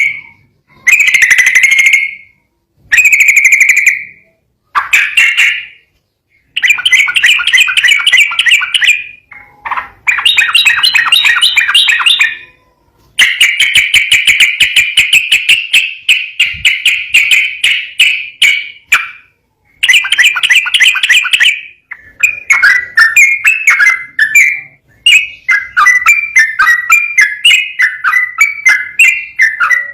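A yellow-vented bulbul (trucukan) singing its fast rolling 'ropel' song, a rapid string of repeated chattering notes. It starts with short phrases of about a second each, then goes into longer unbroken runs, the longest about six seconds, and ends with choppier phrases that jump up and down in pitch.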